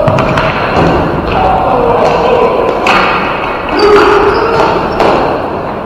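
Ball hockey play echoing in a large hall: repeated sharp knocks of sticks and ball on the floor and boards, with short calls from players between them.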